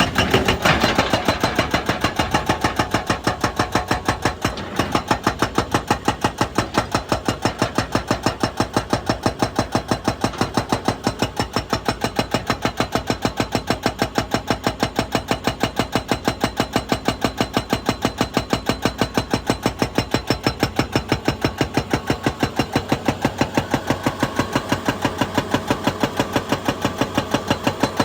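Excavator-mounted hydraulic breaker pounding rock in a fast, even hammering rhythm, with the excavator's diesel engine running underneath.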